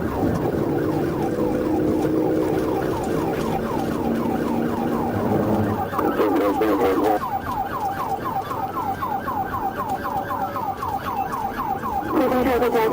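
Police patrol car siren in fast yelp mode, sweeping up and down about four times a second. A lower, rougher warbling tone cuts in briefly about six seconds in and again near the end.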